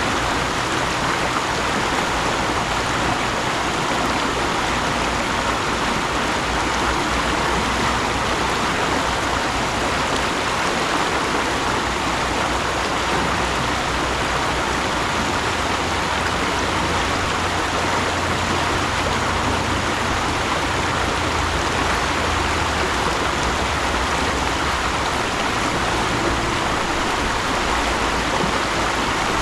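Mountain stream flowing steadily over rocks, a constant rushing of water.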